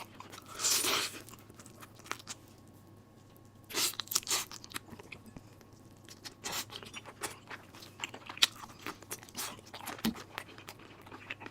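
Close-miked eating sounds: crunchy bites and chewing of chicken thigh wrapped in pickled radish (mu-ssam). Two louder crunching bites come about half a second and four seconds in, followed by a run of short, soft chewing clicks.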